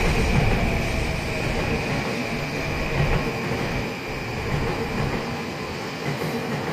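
Electric train running along a station platform: a steady rumble of wheels on rails with a thin, steady high squeal.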